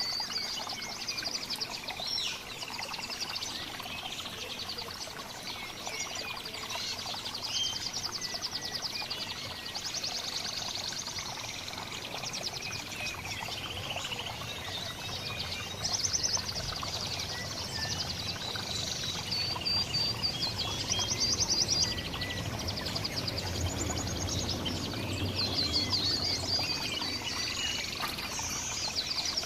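Several small songbirds chirping and twittering at once, with quick trilled chatters recurring every second or two over a steady rushing background noise.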